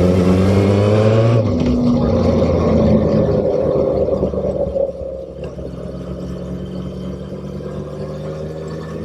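Motorcycle engine accelerating hard, its note rising over the first second and a half, breaking, then pulling again; about five seconds in it drops back to a quieter, steady cruising note.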